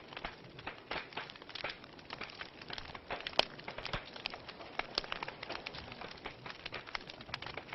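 Fire crackling in a fireplace: a steady scatter of irregular pops and snaps, with one sharper snap about three and a half seconds in.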